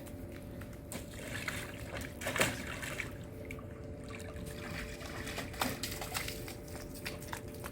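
Water sloshing and trickling, with scattered small splashes and one sharper splash about two and a half seconds in.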